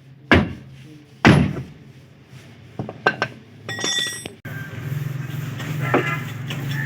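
Maruti 800 car door slammed shut twice, about a second apart, followed by a few lighter clicks and knocks.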